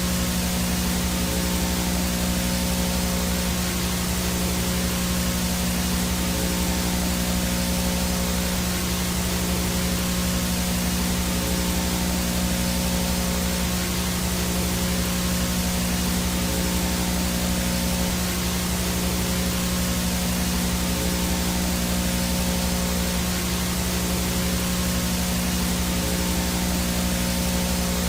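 Steady analog VHS static from a no-signal tape: an even hiss with a steady low hum and faint fixed tones under it.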